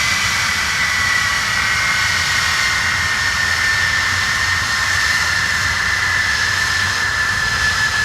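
Avro Vulcan's Rolls-Royce Olympus turbojets running loudly and steadily, a high whine over a hissing rush and a low rumble, the whine sinking slowly in pitch.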